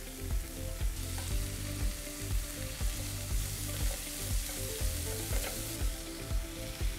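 Marinated chicken tenders and sliced onions sizzling steadily on a hot stovetop grill pan while they are turned with tongs. Background music with a steady beat plays under it.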